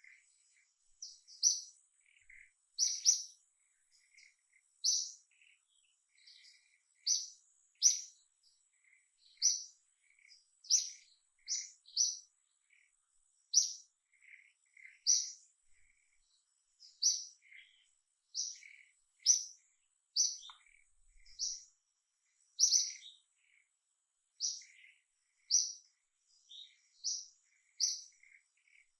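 Short, high-pitched animal chirps repeated about once a second, with fainter, lower chirps between them and a faint steady high whine underneath.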